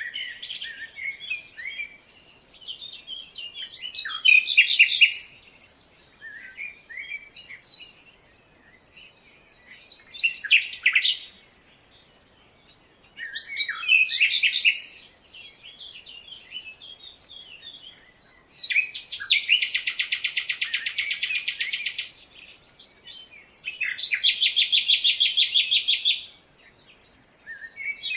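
Forest birds singing and chirping in bursts of varied phrases, then two long, rapid, evenly pulsed trills, each lasting two to three seconds, in the second half.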